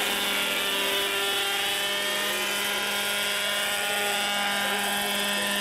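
Radio-controlled model Agusta helicopter in flight, its motor and rotor giving a steady whine.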